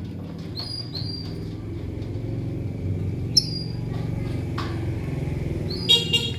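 Lovebirds giving a handful of short, sharp chirps, the loudest one about halfway through, over a steady low mechanical rumble.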